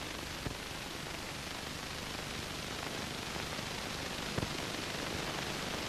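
Steady hiss of an old film soundtrack, with two faint clicks, one about half a second in and one a little past four seconds.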